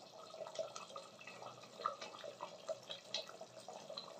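Chicken and onion-tomato masala frying in oil in a clay pot: faint, irregular sizzling with small pops and crackles.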